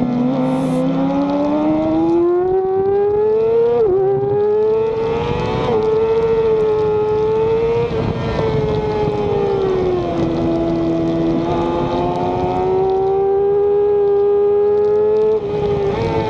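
Racing motorcycle engine heard onboard at high revs: the pitch climbs, drops sharply with a gearshift about four seconds in, holds and sags, then climbs again before another sharp drop near the end. Steady wind rush over the microphone underneath.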